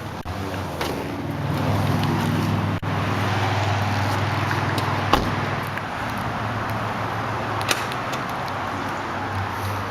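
A nearby motor vehicle's engine hums under outdoor background noise. Two sharp clicks land about five seconds and nearly eight seconds in.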